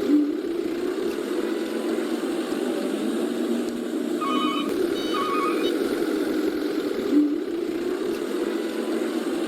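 A looped engine-like drone with short electronic chime tones, the same pattern repeating about every seven seconds.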